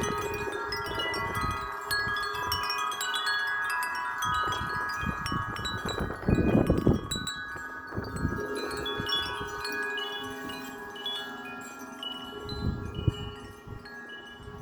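Wind chimes ringing steadily in the wind, many long overlapping tones struck again and again. Gusts blow low rumbling wind noise across the microphone, the strongest about six seconds in.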